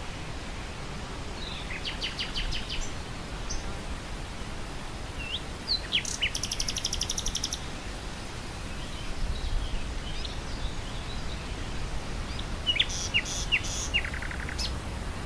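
Nightingale singing in three phrases of sharp whistles and fast runs of repeated notes, over the steady low rush of wind through grass.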